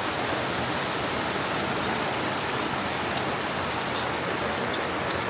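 Steady rush of flowing water, an even hiss without a break, with a few faint tiny ticks of drips.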